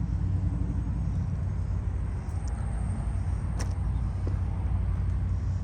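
A steady low rumble with a single sharp click about three and a half seconds in.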